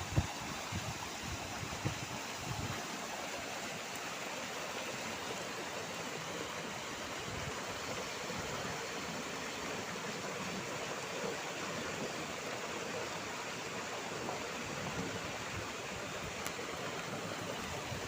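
Waterfall rushing steadily: an even hiss of falling water. A little wind buffets the microphone in the first few seconds.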